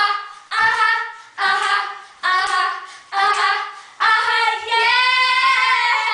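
Young female voices singing unaccompanied: four short sung phrases, each fading away, then one long held note over the last two seconds.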